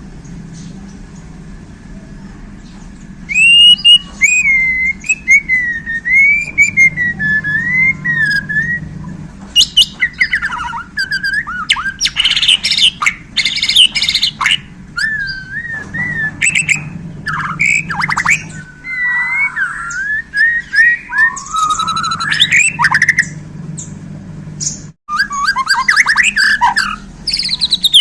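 Bornean white-rumped shama (murai batu) singing. About three seconds in it starts with a whistled, warbling phrase, and from about ten seconds on it gives a loud, varied string of rapid chirps, trills and harsh squawk-like notes, the fill-in (isian) song mixed with mimicked calls.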